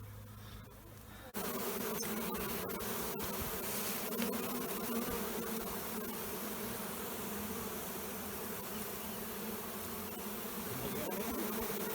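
A swarm of wild honeybees buzzing: a dense, steady hum of many wings that comes in abruptly about a second in.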